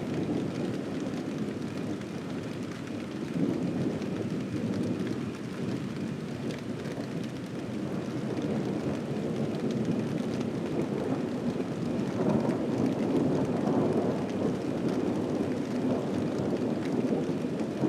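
Thunder rumbling on and on with rain falling, the rumble swelling louder about twelve seconds in.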